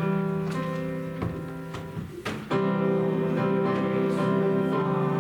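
Instrumental church music on a keyboard: held chords that change about every second or so.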